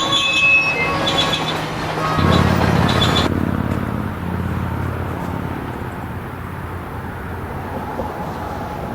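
Freight train rolling by with faint high wheel squeal, cut off abruptly about three seconds in, leaving a low rumble that slowly fades.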